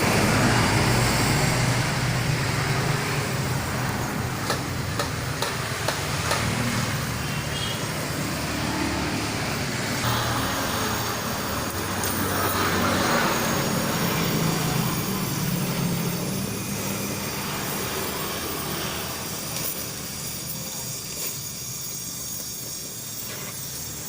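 Car engine running through its exhaust, a steady rumble that swells and eases, strongest at the start and about halfway through and quieter near the end.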